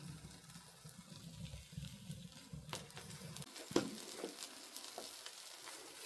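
Wood fire in a fireplace crackling, with chicken sizzling over the embers; scattered small pops and one louder pop a little past halfway.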